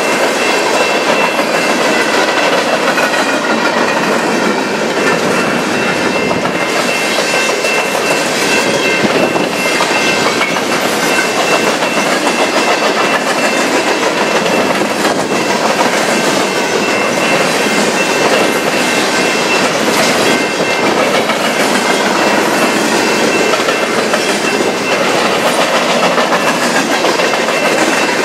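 Freight train cars rolling past at close range: a loud, steady rumble and clatter of steel wheels on the rails, with a thin, high, steady squeal running through it.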